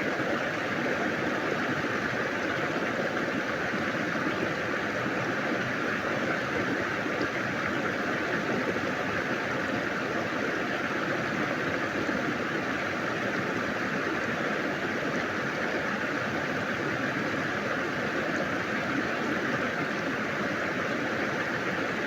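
Steady rush of running water, an even noise without breaks.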